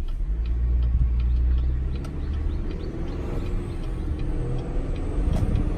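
2019 Chevrolet Silverado's 2.7-litre turbocharged four-cylinder engine pulling under way, a heavy low rumble at first. About halfway in, a faint high whistle from the turbocharger comes in and rises slightly in pitch.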